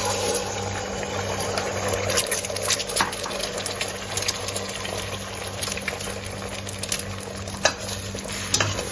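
Eggs frying in hot oil in a pan: a loud sizzle that starts suddenly as they go in, with many sharp crackles and spatters. A steady low hum runs underneath.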